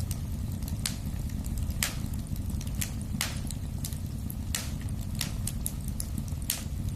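Fire in a fireplace crackling: sharp pops about once a second over a steady low rumble of the flames.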